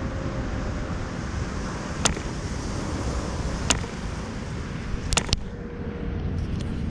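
MK-12V model-aircraft diesel engine being flipped over on a test stand but not yet running: four sharp, isolated pops or clicks, the last two in quick succession, over a steady rushing hiss.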